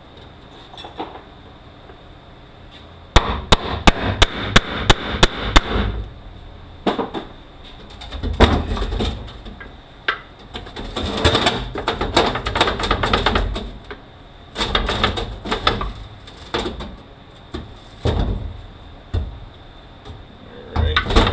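Metal hammering on a manual transmission being taken apart: a quick run of about eight sharp blows, roughly three a second. After that come irregular clanks and rattles of steel gearbox parts being knocked and shifted.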